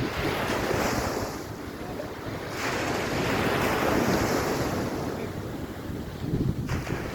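Waves breaking and washing up on a beach, rising and falling in surges, with wind buffeting the microphone.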